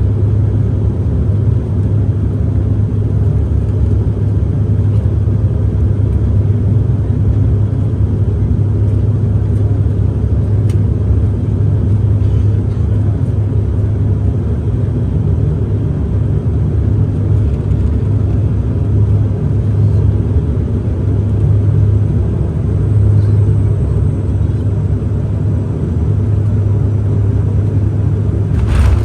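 Steady low rumble of airliner cabin noise, engines and airflow, during the final approach and landing. A single short sharp knock comes near the end.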